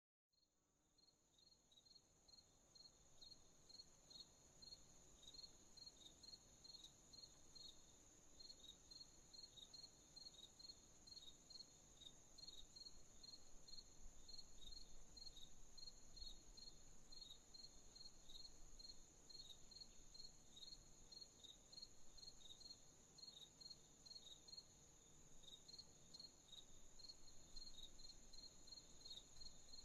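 Night crickets chirping: regular short chirps a few times a second over a continuous high insect trill. The sound fades in over the first few seconds.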